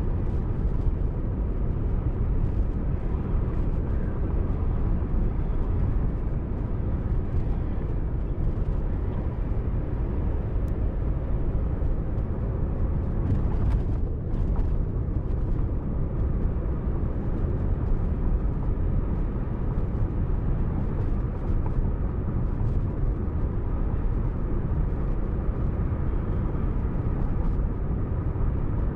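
Steady low rumble of a car on the move: road and engine noise picked up by a dashcam inside the cabin, with faint scattered ticks.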